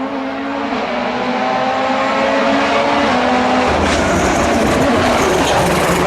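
A World Rally Championship car's turbocharged 1.6-litre four-cylinder engine flat out, its note rising steadily as it accelerates. Nearly four seconds in, the clean engine tone gives way to a louder rough, crackling rush as the car comes past.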